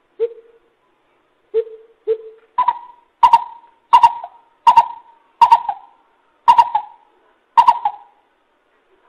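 A coucal (bubut) calling with hollow hoots. It gives three low, well-spaced notes, then a run of seven higher hoots, about one every 0.7 seconds.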